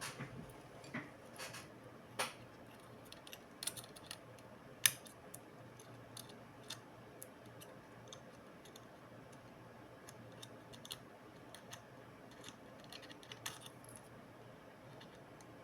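Irregular light clicks and taps of small laptop parts and tools being handled, over a faint steady hum, with one sharper click about five seconds in.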